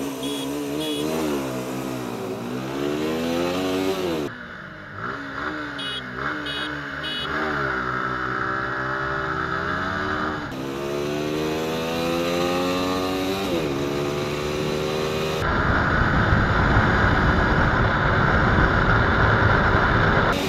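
Small single-cylinder motorcycle engines, a TVS Apache RTR 160 4V and a Suzuki Gixxer SF 155, accelerating hard in a drag race. The engine note rises through the gears with a brief drop at each shift. From about three-quarters of the way through, heavy wind buffeting on the microphone at speed is louder than the engine.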